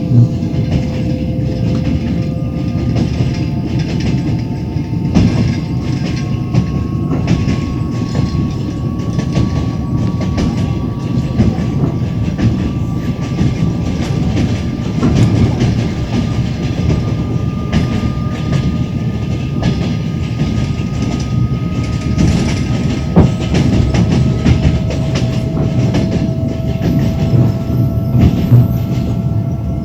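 Train wheels clicking over rail joints with a steady rumble, heard from inside the carriage, with a few sharp clacks and a faint tone that slowly rises in pitch.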